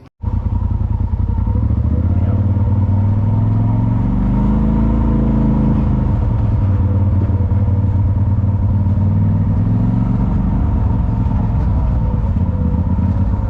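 Side-by-side UTV driving on a trail, its engine running steadily with a heavy low rumble. About four seconds in the engine note rises and then falls back as it speeds up and slows.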